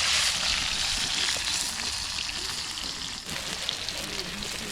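Food frying, a steady sizzle that slowly fades.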